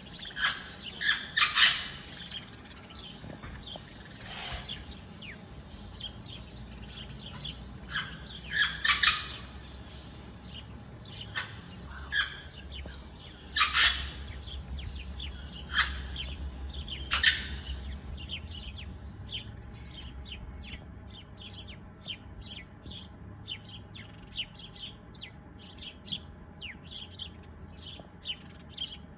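Birds chirping and calling: separate, fairly loud short chirps spaced a second or more apart, then about two-thirds of the way through the background changes abruptly to a busy run of quicker, fainter chirps.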